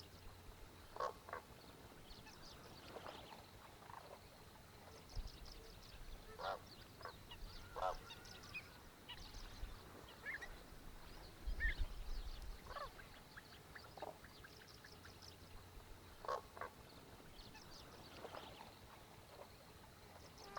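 Distant goose-like honking calls from large birds, short single calls every one to few seconds, over a faint background of high, thin small-bird chirping. There are occasional low rumbles as well.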